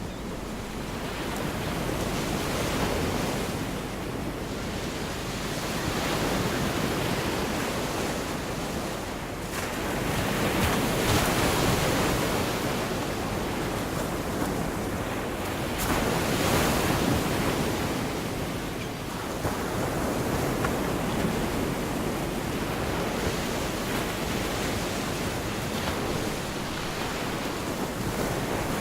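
Gulf of Mexico surf breaking and washing up the beach, a steady wash of noise that swells and ebbs every few seconds.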